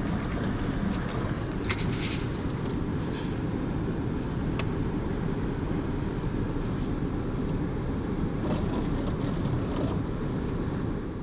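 Car driving: steady engine and road noise, with a few faint clicks.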